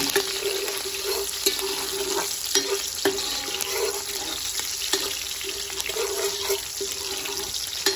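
Chopped onion and garlic sizzling in hot oil in a metal pot, a steady frying hiss with small crackling pops throughout.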